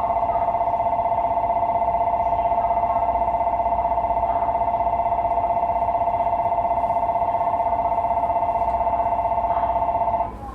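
Electronic station departure bell ringing steadily as a warbling two-tone signal, heard from inside the train, cutting off suddenly near the end: the signal that the doors are about to close.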